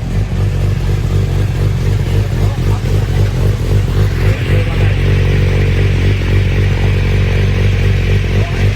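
Motorcycle engine running steadily on a chassis dynamometer. About four seconds in, a higher hissing, whirring layer joins it.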